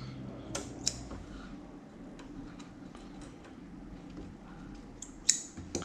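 Light, scattered clicks and small handling sounds, with a sharper click cluster near the end.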